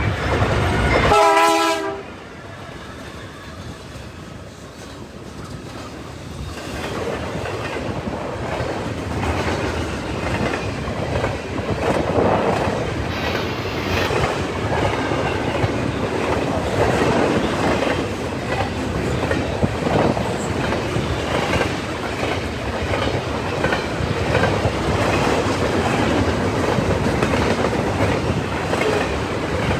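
Freight train horn chord cutting off about two seconds in, then a CN freight train speeding by: its cars keep up a steady rumble with the clickety-clack of wheels over rail joints.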